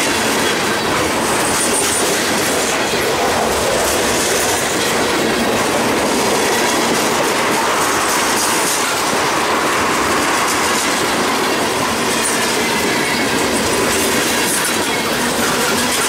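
Freight train cars, covered hoppers and tank cars, rolling past close by: steady loud rumble and clatter of steel wheels on rail, with the click of wheels over the joints. Faint high squeals from the wheels come and go.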